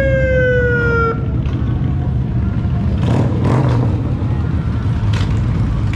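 Motorcycle engines idling as a steady low rumble, with a horn sounding for just over a second at the start, its pitch sagging slightly.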